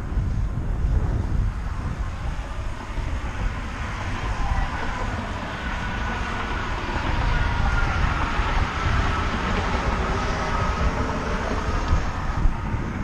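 Road traffic noise mixed with wind on the microphone. A faint whine comes in about four seconds in and slowly falls in pitch, as from a passing vehicle.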